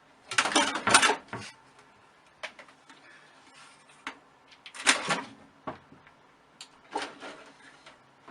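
Irregular rustles and knocks: a handful of short, noisy bursts a second or two apart, the loudest about a second in and near five seconds in.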